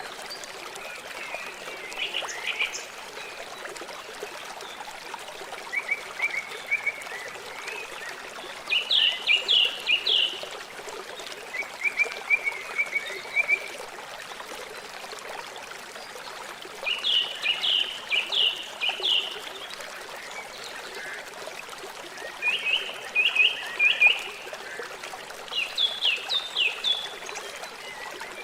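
River water flowing steadily. Every few seconds it is joined by bursts of rapid, high chirping calls, each burst a quick series of short notes.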